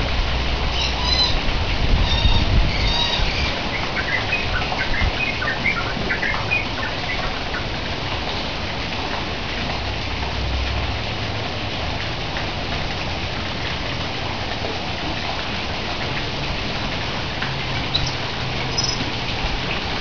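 Small birds chirping in short high bursts over a steady background hiss of the aviary, with chirps clustered in the first several seconds and a few more near the end.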